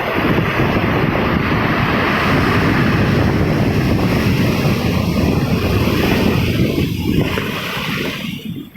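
Sea waves surging and breaking on the shore, with wind buffeting the microphone. The sound dips away briefly near the end.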